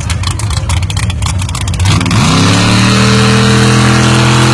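A drag car's engine runs with a rough, lumpy idle at the start line. About two seconds in it is revved up sharply and held at a steady high pitch.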